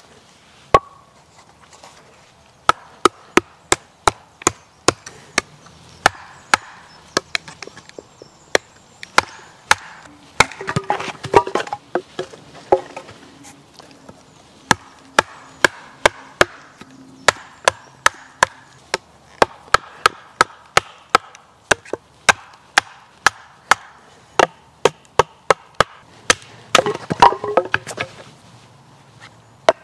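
Wood being chopped with a hand-held cutting tool: sharp strokes into wood, about two a second, with two short flurries of quicker, crackling strokes, one about a third of the way in and one near the end.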